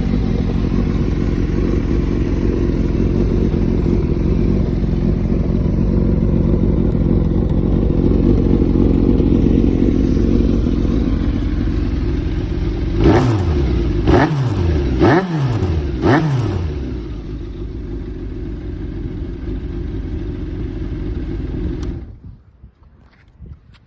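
Honda CBX550F air-cooled inline-four motorcycle engine idling, blipped four times in quick succession about halfway through, each rev rising and falling back, then idling again until it stops near the end. The seller says it runs with little abnormal noise.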